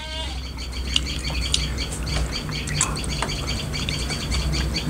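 Small birds chirping in quick, repeated calls over a low steady hum.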